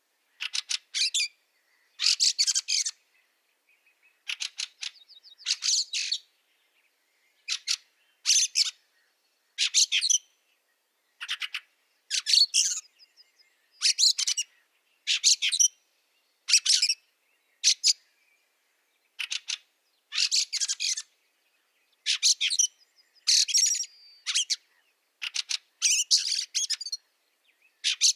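Fieldfare calls: short rattling bursts of rapid clicks, repeated about once a second with brief pauses.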